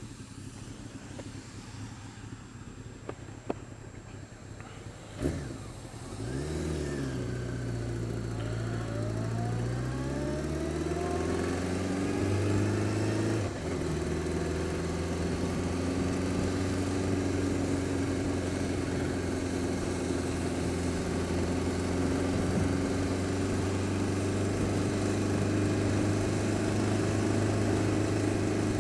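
Honda Fireblade's inline-four engine starting about five seconds in after a few clicks, its idle climbing over several seconds and then settling into steady running. This is a cold start on a bike with an unidentified noise that is worse when cold and quietens but does not go away when warm.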